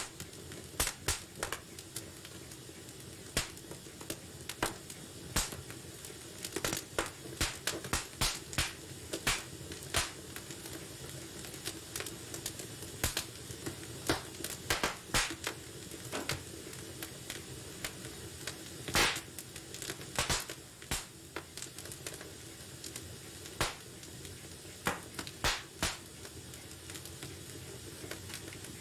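Wood fire crackling in a fireplace: irregular sharp pops and snaps, sometimes in quick clusters, over a steady low hiss.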